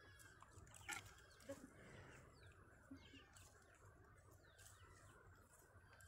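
Near silence with a few faint, short bird chirps, each sliding downward, and one soft knock about a second in.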